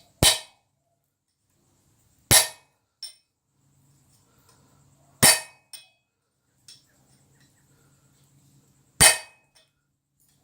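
Four slow, spaced hammer blows on a steel punch, punching a hole in a tong jaw, each ringing sharply, with a light rebound tap after a couple of them. A faint low hum runs under the middle blows.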